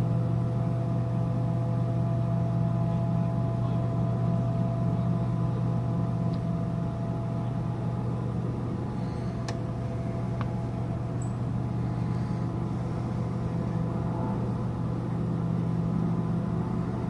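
Steady low hum of a cruise ship's machinery during docking, with several steady tones riding on it. Two faint clicks come about halfway through.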